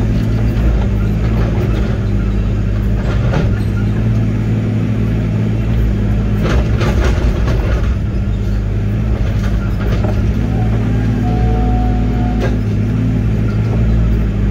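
Link-Belt 145 excavator's diesel engine running steadily, heard from inside the cab while the machine works at pulling a stump. A few clanks and knocks come through over the drone.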